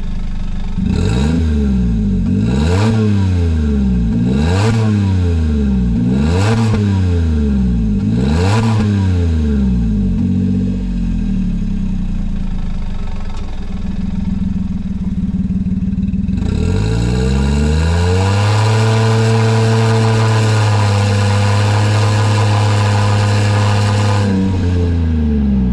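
Daihatsu Hijet kei truck's 660 cc three-cylinder engine through a Rosso Modello COLBASSO aftermarket exhaust, blipped five times in quick succession from idle. It then settles to a steady idle, is held at higher revs for about seven seconds, and drops back to idle near the end.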